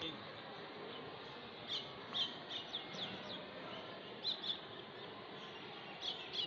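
Small birds chirping: short, high chirps in loose clusters, several in a row about two seconds in, a pair past the middle and more near the end, over a faint steady outdoor background.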